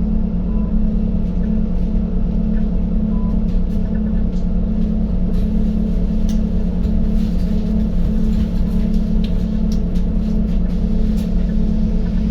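Interior of a Scania N280UD double-decker bus on the move: its five-cylinder engine gives a steady low drone, with scattered clicks and rattles from the cabin.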